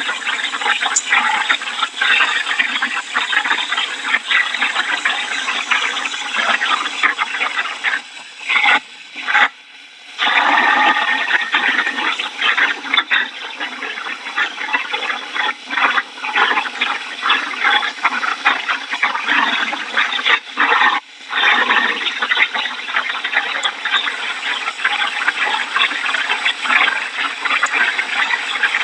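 Heavy wind-driven hurricane rain and wind, a loud, dense, steady rush of water noise. It dips sharply twice, once around eight to ten seconds in and again around twenty-one seconds.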